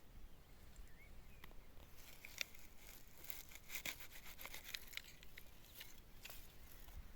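Faint scattered rustling and clicking, like handling or brushing against vegetation, with a few faint bird chirps.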